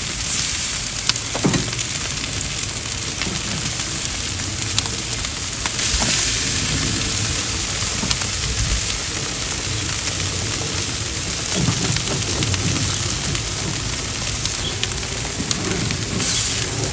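Charcoal grill sizzling steadily, with scattered small pops and crackles.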